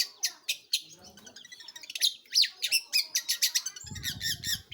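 Long-tailed shrike (cendet) singing: a fast run of sharp chirps at about four a second, then a varied string of chirps and gliding whistles. A low rumble sounds under it near the end.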